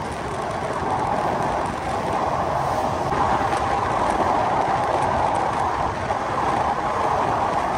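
Passenger train running at speed: a steady rumble and rail noise from the moving carriage, with a few faint clicks.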